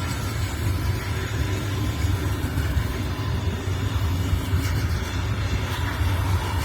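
An engine running steadily, with a low, even rumble and no change in speed.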